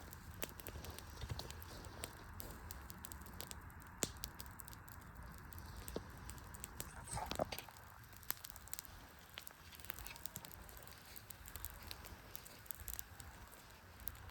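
Wood fire crackling, with irregular sharp pops and snaps over a faint hiss. About halfway through comes a brief, louder whistle-like sound.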